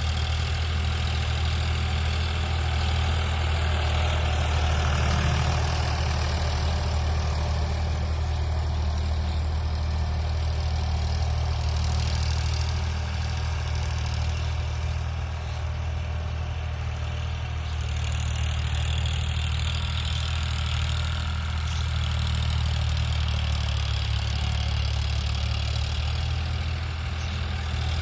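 Eicher 551 tractor's 50 hp diesel engine running steadily, with a deep low-pitched drone and no revving or change in load.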